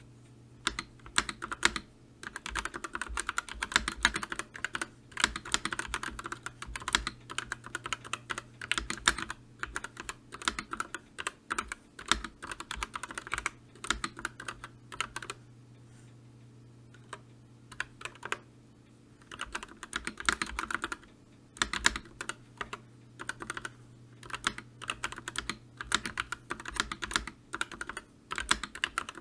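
Typing on a computer keyboard: quick, uneven runs of keystroke clicks, with a pause of a few seconds a little past halfway before the typing resumes.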